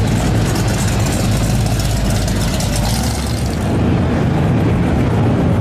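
A car engine running loudly at low speed with a steady, low exhaust note. A higher hiss over it dies away about three and a half seconds in.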